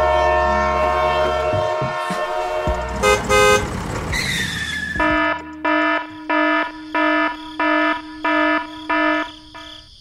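Held horn-like tones, then short loud toots about three seconds in and a falling whistle, followed by an electronic warning beep repeating steadily, about eight beeps at roughly one and a half a second, in the second half.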